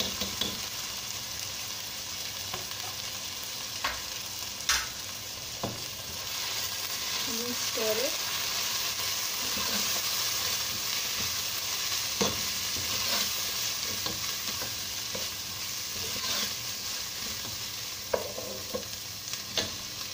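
Chopped onions and ginger-garlic paste sizzling in hot oil while being stirred in a nonstick pot, with a steady frying hiss. The metal ladle knocks sharply against the pot several times.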